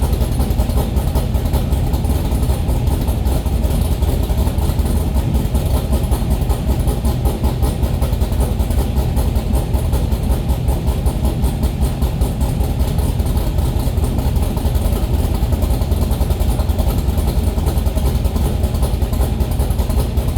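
Engine idling steadily after a cold start, a fast, even drum roll of firing pulses.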